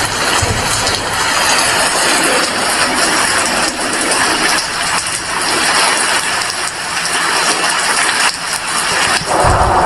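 Heavy rain falling steadily, a dense even hiss, with brief low rumbles about half a second in and again near the end.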